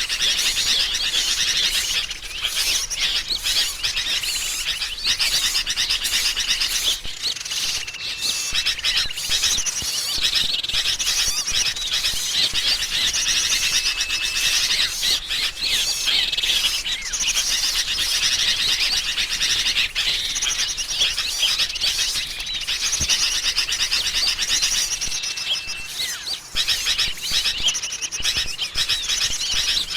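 Bird-lure recording: a dense, unbroken chorus of agitated sooty-headed bulbul (kutilang) calls mixed with small songbirds' chirps. A short steady whistle note recurs about every six seconds.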